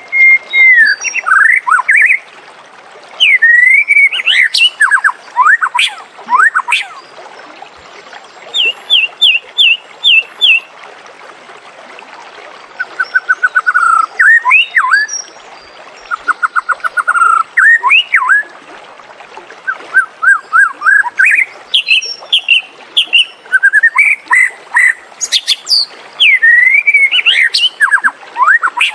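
White-rumped shama (murai batu) singing: loud, clear whistled phrases of slurred notes and quick runs of repeated notes, broken by short pauses, over a faint background hiss.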